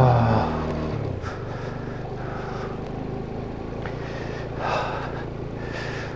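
Motorcycle engine running while riding, with a brief loud burst at the start; about a second in the engine note drops to lower revs and then runs steadily, with a short louder swell near the five-second mark.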